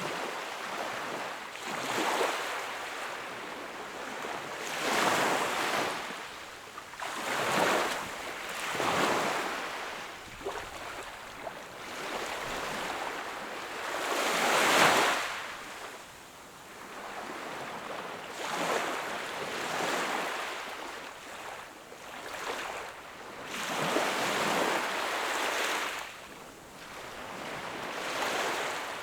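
Sea waves washing onto the shore, one surge after another every few seconds over a steady hiss of surf, the loudest wave breaking about halfway through.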